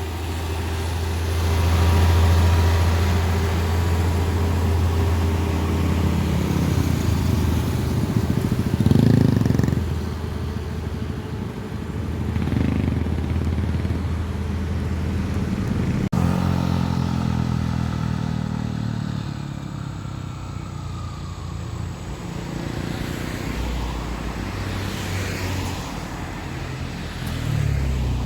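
Heavy diesel machinery running steadily, its engine note swelling and easing several times. There is a single sharp click about halfway through.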